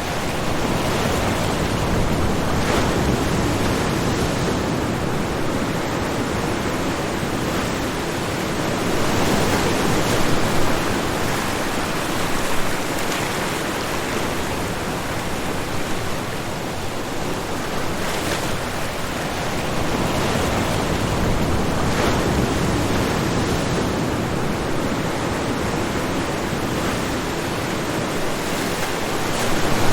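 Ocean waves breaking on the shore: a continuous rushing surf that swells and eases gently over several seconds.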